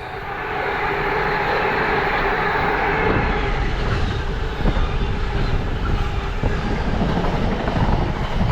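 Train running past on the rails: a steady rushing noise of wheels on track, with a few faint clicks.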